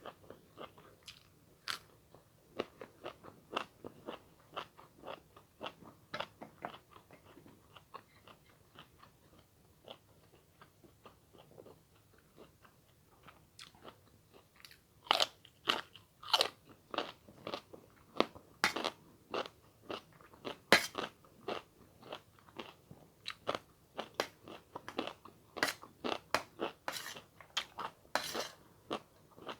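Close-miked eating: a person chewing and crunching food in the mouth, with irregular crisp crunches that come louder and faster in the second half.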